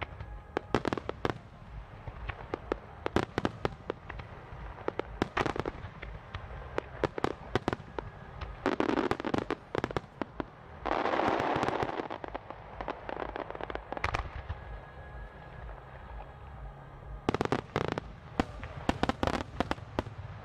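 Aerial firework shells bursting in rapid salvos, many sharp bangs in clusters. About nine and eleven seconds in, the bangs run together into dense rushing stretches as a large barrage goes off, then separate bangs resume near the end.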